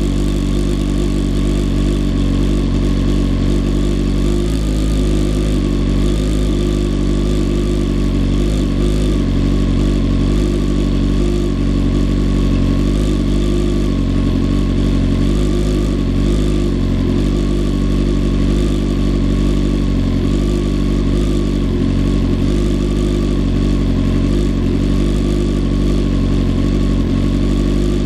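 BMW S1000RR motorcycle's inline-four engine idling steadily, its note even and unchanging.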